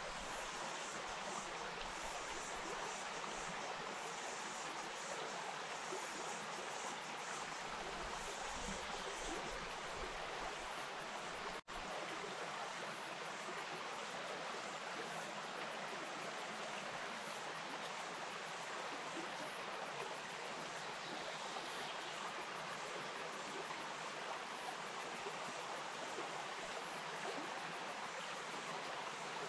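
Wainuitewhara stream flowing: steady water noise with no changes, except a momentary dropout in the sound a little over a third of the way in.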